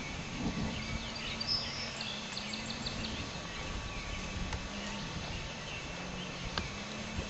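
Outdoor ambience with songbirds chirping in the background, short chirps mostly in the first few seconds. A faint low hum comes and goes beneath them, and there are a couple of soft knocks near the end.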